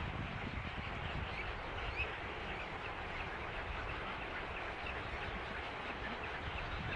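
Many birds calling at once, short overlapping calls from a waterbird colony, over a steady low rumble.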